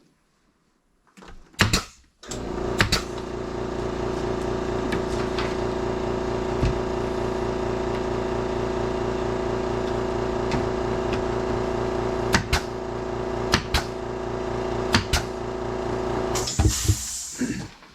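A motor-driven machine runs steadily for about fourteen seconds, with a few sharp knocks over it, then a short hiss as it stops.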